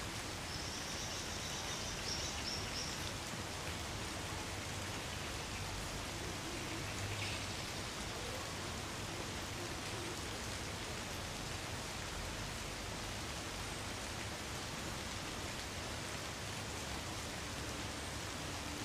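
Light rain falling steadily on woodland trees, an even, continuous hiss of drops.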